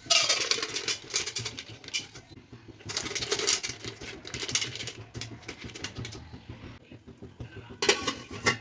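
Popcorn kernels clattering in a pan: dense rapid clicks in three bursts, the first about two seconds long at the start, another about three seconds in, and a short one near the end.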